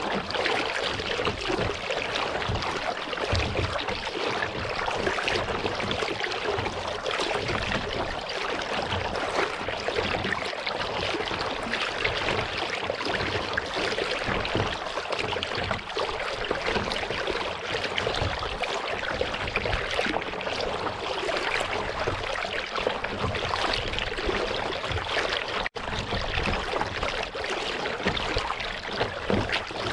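Lake water splashing and trickling around a kayak as it is paddled, a steady busy trickle with low knocks and rumbles underneath. The sound briefly cuts out near the end.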